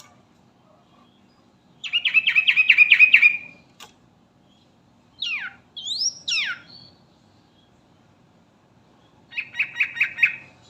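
Yellow-vented bulbul calling: a quick chattering run of notes, then a few sharp swooping whistles falling and rising, then a shorter chattering run near the end.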